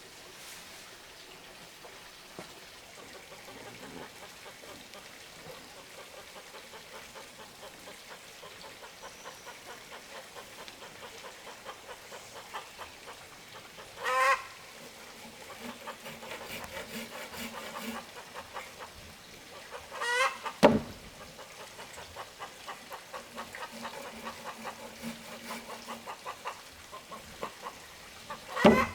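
Poultry calling: three short, loud squawking calls several seconds apart. A sharp knock follows the second call, and a faint, even ticking runs underneath.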